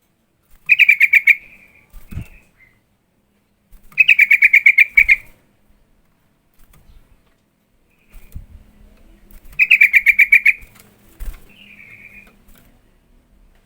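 Yellow-vented bulbul (trucukan) calling in three loud bursts of rapid, bubbling chatter, each lasting about a second, with a few shorter single calls between the bursts.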